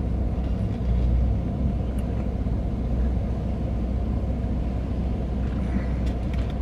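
Steady low rumble of an idling car, with a constant deep hum and no strong separate events.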